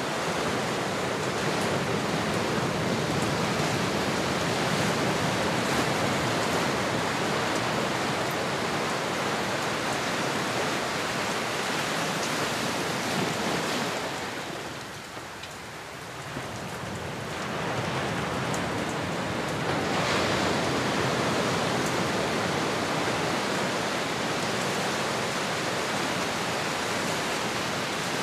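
Ocean surf: a steady wash of waves that ebbs away about halfway through and swells back a few seconds later.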